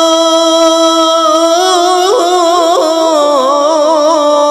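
A single voice singing a Bengali gojol, an Islamic devotional song: it holds one long note, then about two seconds in breaks into wavering, ornamented turns of pitch.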